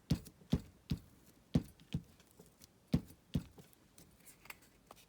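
A series of light, irregular taps and knocks on a work surface, about a dozen in all, several coming in pairs.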